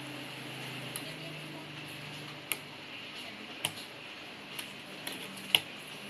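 Lego plastic bricks being handled and snapped together: about half a dozen short, sharp clicks at irregular intervals, the loudest near the end.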